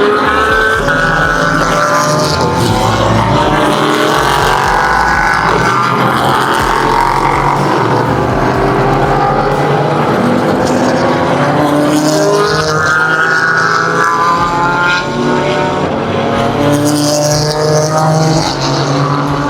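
Sports racing cars running on the circuit, one after another, engines loud and continuous. Their pitch rises and falls as they pass and change gear.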